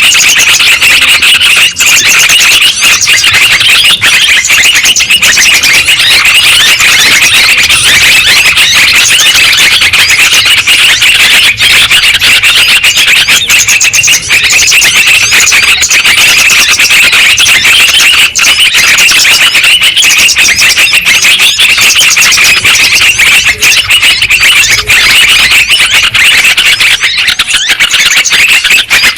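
Lure recording of yellow-vented bulbuls (trucukan) calling in a loud, dense, unbroken stream of high calls.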